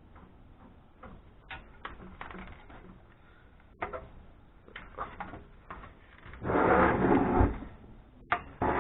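Screwdriver and loose metal parts clicking and knocking on an amplifier's chassis while screws are taken out, with a louder scraping rattle of metal for about a second, two-thirds of the way in.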